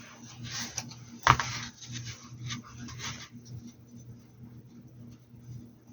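Rubbing and scraping of objects being handled on a work surface, with one sharp knock about a second in, then a few faint light taps over a steady low hum.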